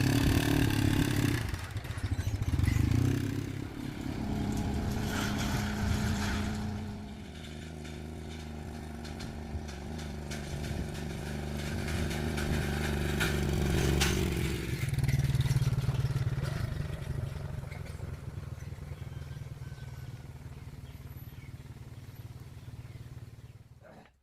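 Motorbike engine running, its pitch and loudness rising and falling as it speeds up and slows. The sound cuts off abruptly near the end.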